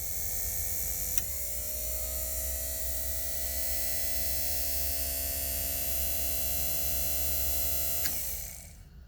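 Electric heater blower motor running with a steady whine. About a second in a click sounds, its pitch dips, then it climbs back up and holds steady. Near the end another click, and the motor winds down.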